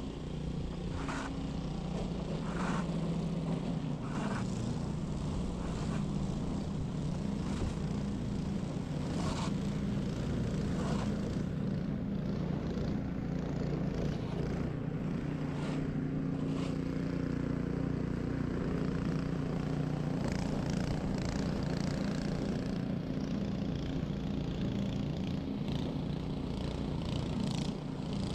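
Ariens 21-inch single-stage snow blower engine running steadily under load while clearing snow, with scattered short knocks and scrapes over the engine.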